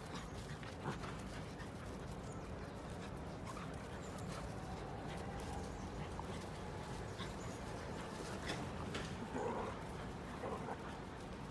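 Dogs at play: faint dog noises such as whines and yips, with scattered light scuffing clicks over a steady low background hiss.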